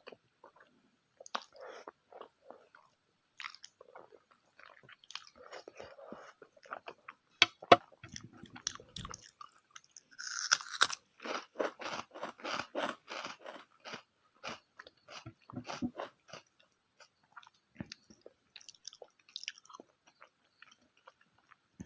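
A person chewing and biting food close to the microphone, with wet mouth clicks and smacks. Two sharp loud clicks come about seven and a half seconds in, and a quick, steady run of chewing follows from about ten to sixteen seconds.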